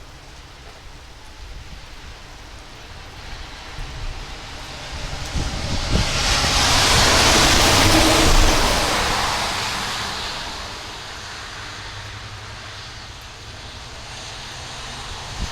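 Rainstorm: a steady rush of rain and wind, swelling into a loud whoosh that peaks about eight seconds in and then dies back down.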